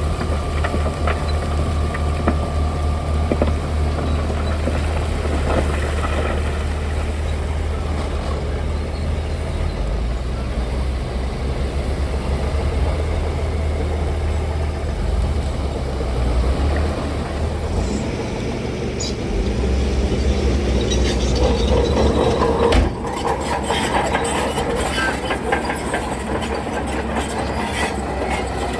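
Shantui bulldozer at work: its heavy diesel engine runs steadily under a continuous clank and rattle of steel tracks. The clatter gets busier in the last third, with a sudden brief dip in level about 23 seconds in.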